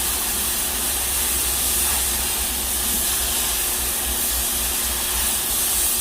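A metal-cutting torch hissing steadily as it cuts an opening through the steel plate of a wood stove body.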